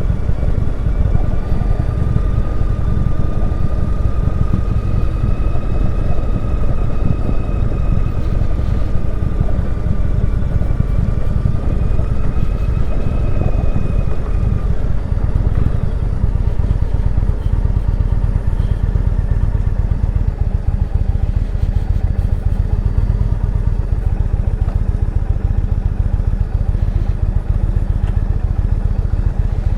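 Motorcycle engine running as the bike is ridden, with heavy wind rumble over the microphone. A faint steady whine sits above it and fades out about halfway through.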